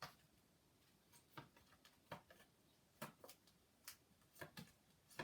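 Faint, short clicks and flaps of cardboard flashcards being flicked through a pack one at a time, roughly one a second, over near silence.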